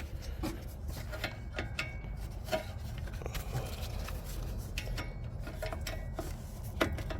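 Hand tools working on metal exhaust parts: scattered light clicks and rubbing, with a sharper click near the end.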